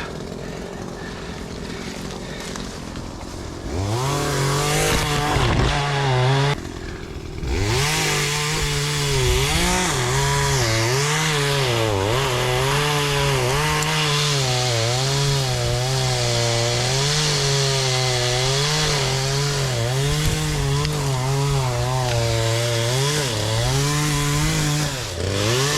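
Chainsaw running at high revs and cutting wood, its pitch rising and falling over and over as it works. It starts about four seconds in and drops off briefly a few seconds later.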